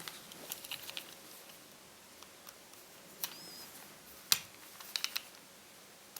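Sharp clicks and taps of small hard parts and tools being handled during a laptop disassembly, in short clusters: several near the start, a loud single click about four seconds in, then three quick clicks.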